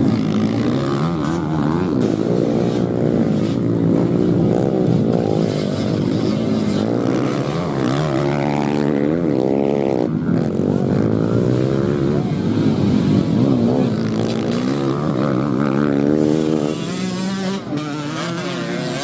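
Several motocross bikes racing on a dirt track, their engines revving up and down as the riders accelerate and shift. The overlapping engine notes rise and fall repeatedly, easing off somewhat near the end.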